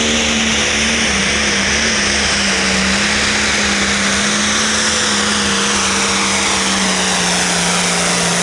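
A pulling tractor's engine running flat out under the sled's load, one strong droning note whose pitch slowly sinks as the revs are pulled down, over a loud hiss.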